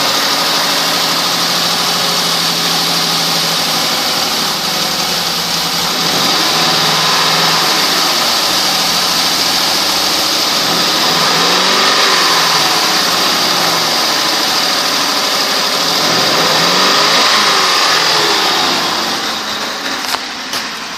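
2002 Ford Explorer engine running just after start-up, its speed rising and falling a few times in the middle, then easing down near the end.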